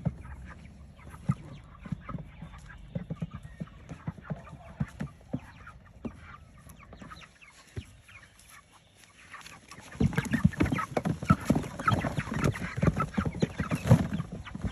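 Young Cornish cross meat chickens calling in a tote, many short calls, growing much louder and busier about ten seconds in.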